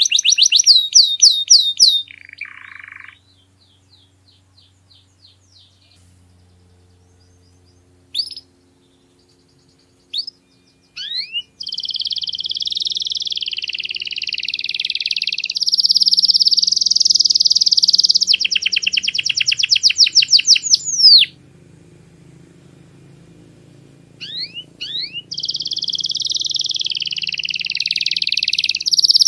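Domestic canary singing: fast trills and long rolling phrases of rapidly repeated high notes, broken by pauses of a few seconds, once early on and again about two-thirds of the way through.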